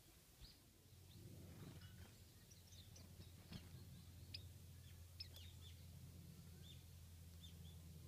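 Faint, short, high chirps of Japanese white-eyes calling here and there over a steady low hum.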